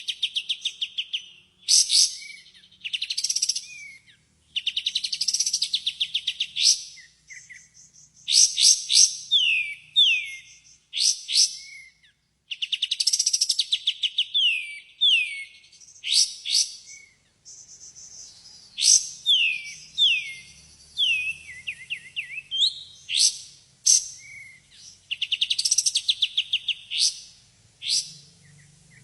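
Kapas tembak birdsong, played as a lure to draw the bird into answering. Fast rattling trills of about a second alternate with short downward-sliding whistled notes, usually in pairs or threes, in phrases separated by brief pauses.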